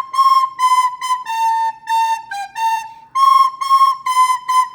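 Soprano recorder playing a simple melody in short, separately tongued notes, two or three a second, moving stepwise around one pitch.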